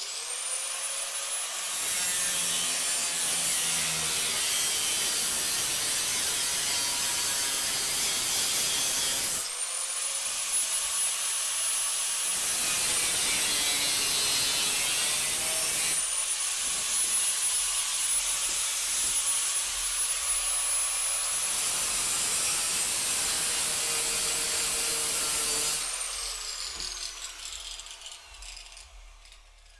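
Angle grinder cutting through rusted, seized trailer bolts: a loud grinding with a high whine that rises as the disc spins up, dips a few times as the disc bites, and winds down near the end.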